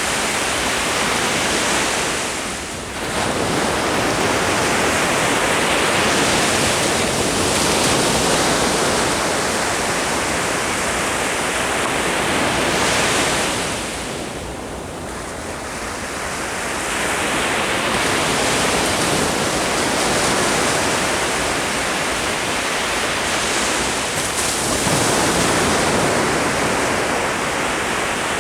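Ocean surf: waves breaking and washing up the shore in a continuous rush, easing off briefly about three seconds in and again around the middle before building back.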